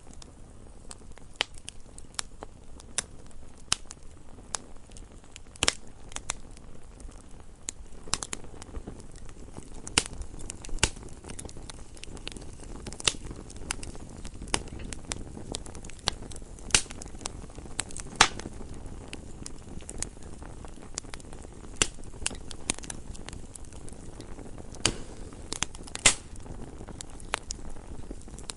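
Wood fire burning in a fireplace, crackling with irregular sharp pops over a low steady hiss. Two pops stand out as the loudest, one past the middle and one near the end.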